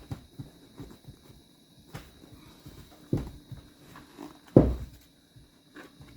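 Handling noises as a leather cover is worked down over a motorcycle seat's foam and steel base: scattered light knocks and rubbing, with two louder dull thumps about three and four and a half seconds in.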